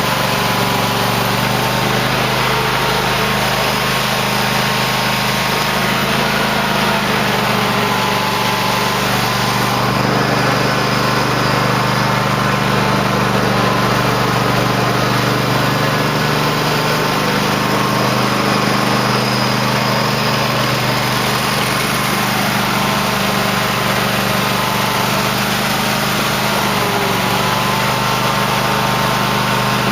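Cub Cadet LT1050 lawn tractor's engine running steadily while plowing snow, its pitch dipping slightly and recovering a few times as the load changes.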